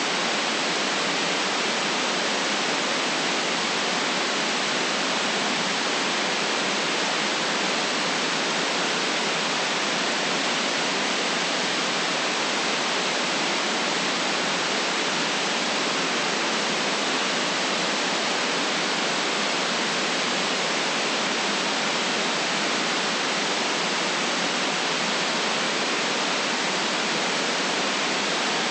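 Steady white noise: an even, unchanging hiss at one constant level, with no deep rumble and no top end.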